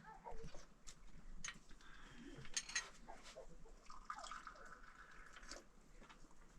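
Faint dripping and trickling of water, with scattered small clicks.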